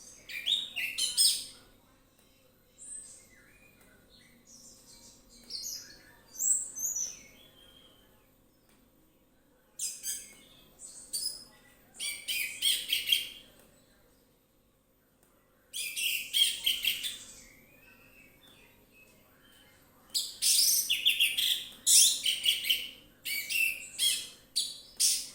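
Orange-headed thrush (anis merah) singing in bursts of rapid, varied phrases, with pauses of a second or more between them; the last stretch of song runs for about five seconds near the end.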